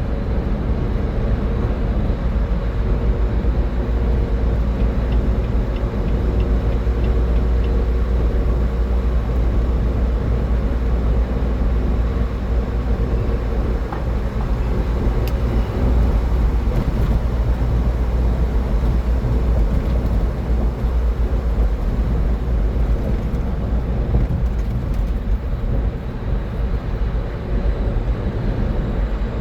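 Steady road noise of a car travelling at highway speed: a constant low rumble of tyres and engine with a faint hum on top.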